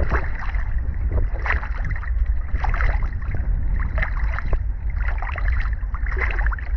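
Wind buffeting the microphone with a steady low rumble, over choppy water splashing and slapping around a kayak.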